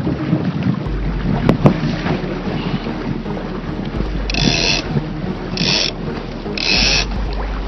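Wind buffeting the microphone and water rushing past a small sailboat, with a sharp knock about a second and a half in and short bursts of hissing spray about every second and a half near the end.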